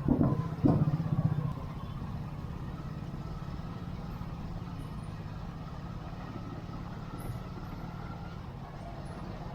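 Motorbike engine running at low road speed in busy street traffic, louder in the first second and a half, then a steady hum.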